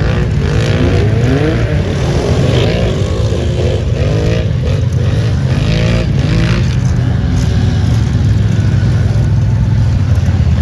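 Off-road vehicle engine revving in repeated rising bursts for about the first six seconds, over a steady low engine rumble that carries on throughout.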